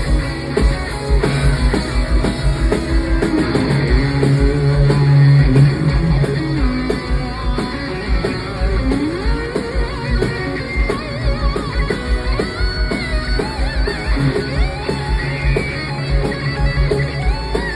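Live hard rock band playing loud: distorted electric guitars and bass over a fast, driving kick drum. In the second half a lead line bends up and down in pitch.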